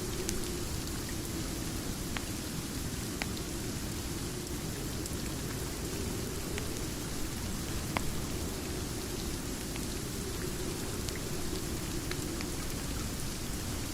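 Steady rain falling, with a few sharp, irregular crackles and pops from a wood fire.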